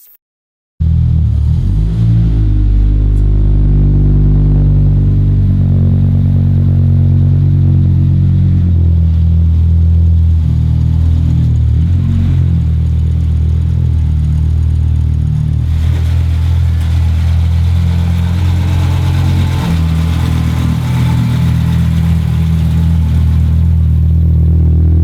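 Tuned Audi RS2 Avant's 20-valve turbocharged inline-five engine running loudly at fairly steady low revs, cutting in abruptly about a second in, its pitch shifting slightly in small steps with no big rev sweeps.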